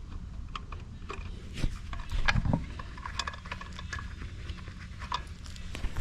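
Scattered light clicks and knocks of hand tools and metal parts being handled, with a louder cluster of knocks about two seconds in, over a low steady rumble.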